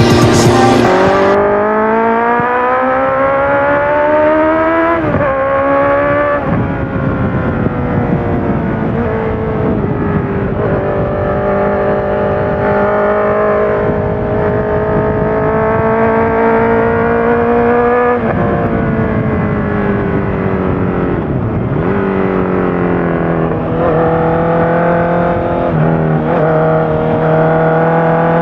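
Honda CBR650F inline-four running through a full Akrapovic exhaust with the dB killer in, revving up through the gears with sharp drops in pitch at each upshift about five and six seconds in, then holding fairly steady revs with slow rises and a few brief throttle dips.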